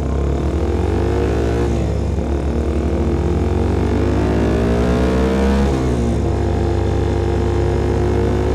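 Exhaust note of a CFMOTO Papio SS mini motorcycle's single-cylinder engine through a KO Lightning slip-on exhaust while riding. The revs climb, drop sharply at an upshift about two seconds in, climb again, fall off near six seconds and then run steady.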